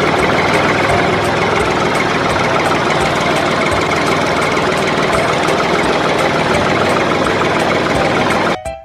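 Engine idling steadily with a faint, even ticking, cut off suddenly near the end.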